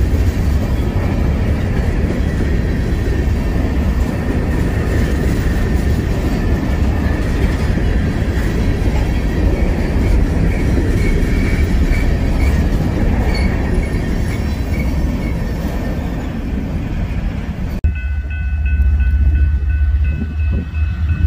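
Freight train rolling past close by: a steady rumble and rail noise from the cars, with a faint squeal over it. About 18 seconds in, the sound cuts off abruptly to a deep, steady rumble with a few steady high tones above it.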